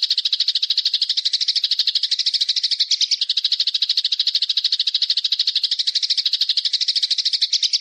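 A small bird's long, rapid trill of evenly repeated short high notes, about fifteen a second, which cuts off suddenly near the end.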